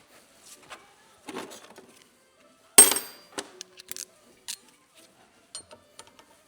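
Metal parts and tools being handled during coilover disassembly: light clicks and clinks, with one loud, sharp metal clank about three seconds in that rings briefly.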